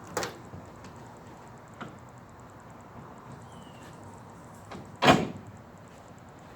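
A door banging shut: a sharp knock just after the start, a faint click near two seconds, and a much louder slam about five seconds in.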